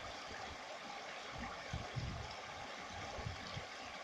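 A river flowing with a steady rush of water, with irregular low rumbles underneath.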